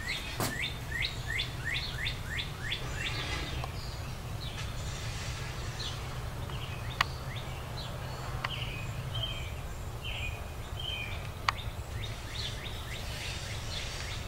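Small birds chirping: a quick run of about eight falling chirps, then scattered short chirps, over a steady low background hum, with a few faint clicks.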